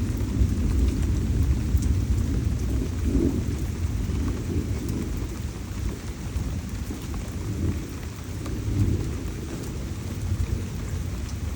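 Tropical thunderstorm: steady heavy rain with a low rolling rumble of thunder underneath and scattered drops ticking. The rumble is strongest in the first half and eases a little toward the end.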